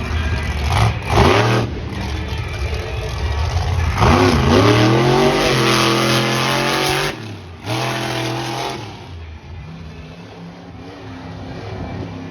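Monster truck engine revving hard: a quick rev about a second in, then a long rev from about four seconds that climbs and holds high for about three seconds before cutting off, another short burst near eight seconds, then settling back to a lower, quieter run.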